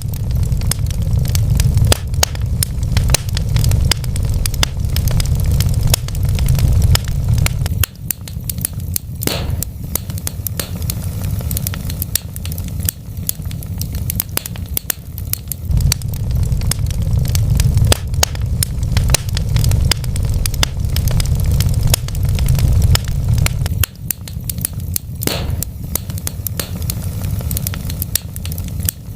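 Wood fire burning in a fireplace: a steady low rumble of flames under frequent sharp crackles and pops from the burning logs, with a couple of louder pops.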